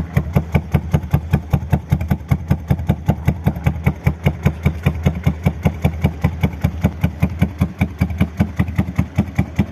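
1975 BMW R90/6's air-cooled flat-twin engine idling steadily through Norton peashooter-style mufflers, with an even, regular pulsing exhaust beat.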